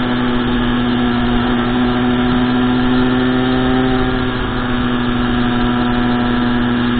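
Small mini-motorbike engine running at a steady speed while under way, a constant-pitched hum that neither rises nor falls.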